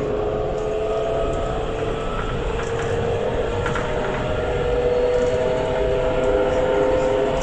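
Alstom Citadis 402 tram running, with the steady rumble of wheels on rail and a traction-motor whine that rises slowly in pitch as the tram gathers speed.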